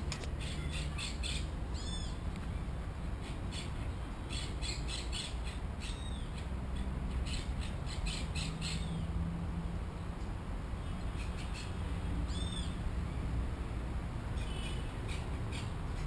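Birds squawking and calling in repeated short bursts, over a steady low rumble of wind on the microphone.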